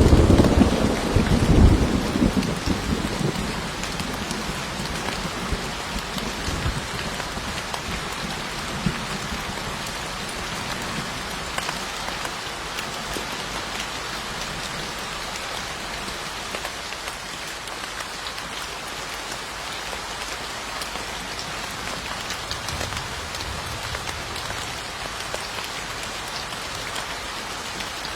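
Steady heavy rain falling on surfaces, with a deep roll of thunder at the start that swells and dies away over the first few seconds. A fainter low rumble comes about two-thirds of the way through.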